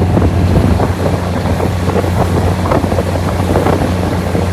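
A diesel passenger train running at speed, heard from an open carriage window: a steady low engine drone with wind rushing over the microphone and irregular clatter from the wheels and track.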